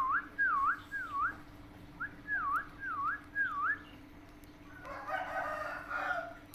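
Pet parrot whistling: two runs of three quick swooping whistles, each dipping and rising in pitch, followed about five seconds in by a brief raspy chatter.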